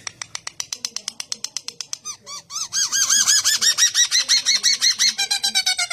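Songbird singing in rapid repeated notes: a fast run of short notes, about a dozen a second, shifting after about two and a half seconds to louder looping notes, and near the end to a steady run of reedy notes at one pitch.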